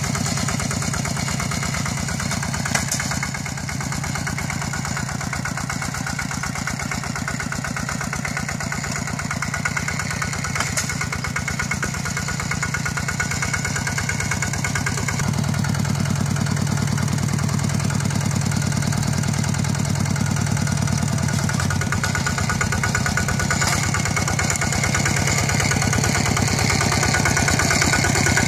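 Walk-behind tractor's single-cylinder diesel engine running steadily, with an even firing beat. It runs a little harder and louder from about halfway.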